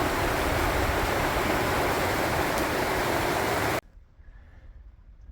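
Steady rushing of a nearby stream, with an uneven low rumble underneath. It cuts off abruptly a little under four seconds in.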